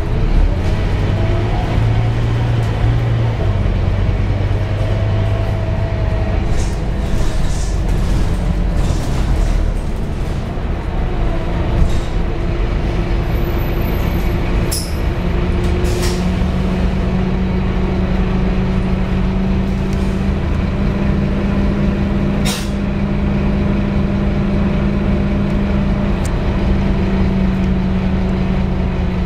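Scania K230UB bus's diesel engine running steadily as the bus drives, its note stepping up about halfway through, with several short air-brake hisses.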